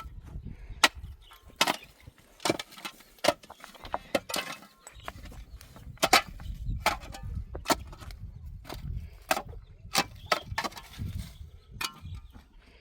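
Repeated sharp knocks, like wood being struck or chopped, coming irregularly about one to two times a second over a low rumble.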